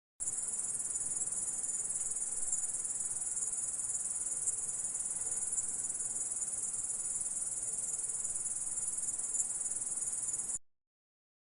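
Orthopteran insect stridulating, given as a grasshopper: a steady high-pitched chirring that starts abruptly and cuts off suddenly about ten and a half seconds in.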